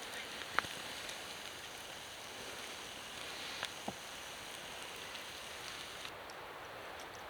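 Steady rushing noise of running water, with a few brief sharp clicks over it.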